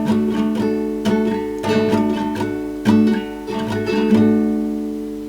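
Acoustic guitar played alone between sung verses: about ten plucked chords, the last struck near the end and left ringing as it fades.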